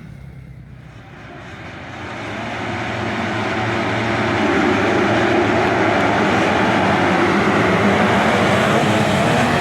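Motocross motorcycle engines approaching: the sound is faint in the first second, builds steadily over the next few seconds, then stays loud.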